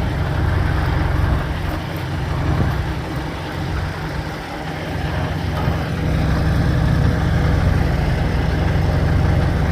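Truck engine idling steadily with a low hum, slightly quieter for a moment in the middle.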